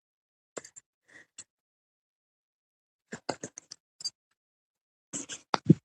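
Scattered short clicks and crackles in small quick clusters, with dead silence between them.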